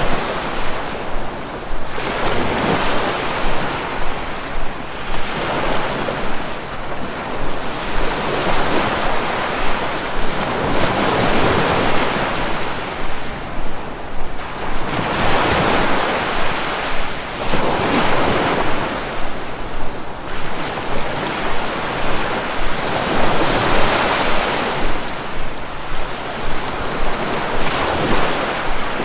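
Sea waves breaking and washing ashore, a continuous rush of surf that swells and falls back every few seconds.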